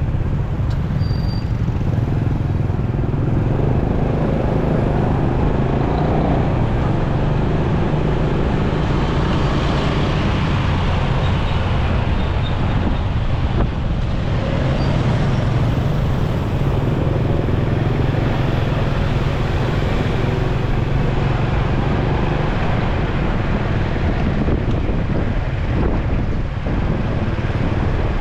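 Motorcycle riding through city traffic: its engine runs steadily as a low hum under a constant rush of wind and road noise, with other vehicles around it.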